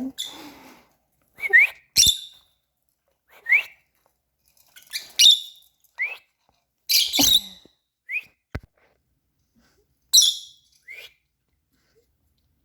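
Pet lovebirds calling: a string of short, shrill, harsh calls and quick rising chirps, one every second or two, with a few sharp knocks among them.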